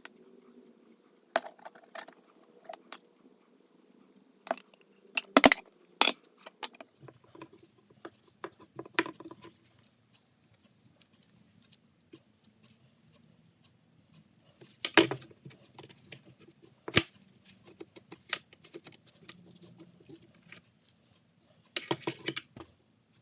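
Irregular light clicks, clinks and knocks from handling table saw parts while applying cleaner wax by hand, with a few sharper knocks about five seconds in, around fifteen to seventeen seconds, and near the end.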